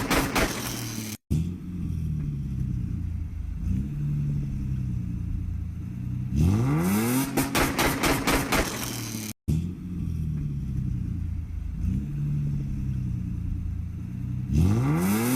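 Car engine revved hard, its pitch climbing quickly in rapid throttle blips, then dropping back to a steady lumpy idle. The rev-and-idle sequence comes round again about six seconds in and once more near the end, with two short dropouts to silence.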